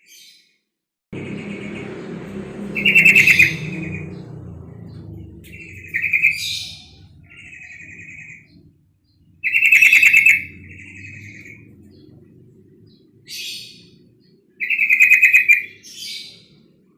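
Female yellow-vented bulbul (trucuk) calling: short, buzzy, rattling chatters in about four loud bursts, with softer notes between them. A low background rumble starts about a second in and fades.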